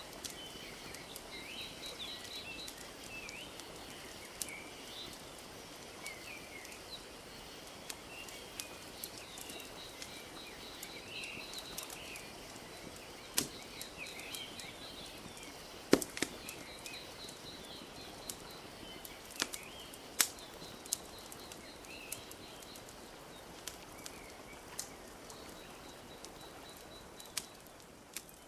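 Wood fire crackling with scattered sharp pops, a few louder ones around the middle, while birds chirp and a high trill repeats over a steady soft wash of lake water lapping.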